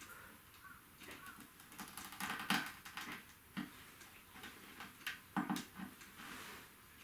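Scattered light taps and clicks from handwork, irregular, with a few louder knocks about two and a half, three and a half and five and a half seconds in.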